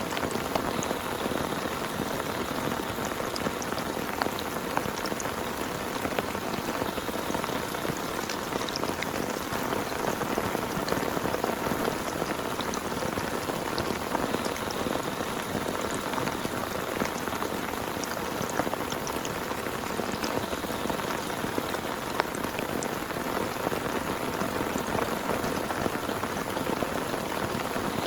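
Heavy rain falling steadily, with many separate drops ticking sharply through the hiss.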